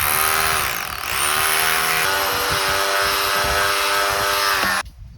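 A high-speed electric power tool runs and cuts. Its motor whine dips in pitch about a second in as it is loaded, then recovers. It stops abruptly near the end.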